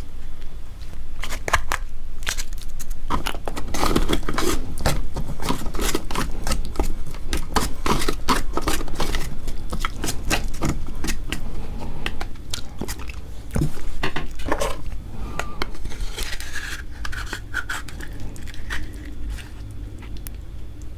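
Close-miked eating of marinated raw crab (gejang): crab shell cracking and crunching between the teeth, with wet chewing and sucking, as a dense run of irregular sharp clicks and crackles.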